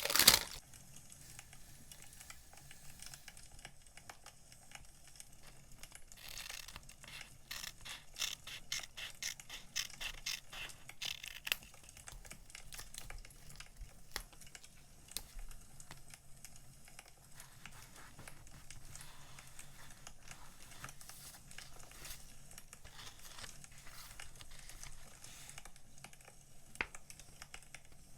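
Crackling of burning firewood mixed with soft paper and plastic rustling as sticker packs are handled, with a dense run of sharp crackles in the middle.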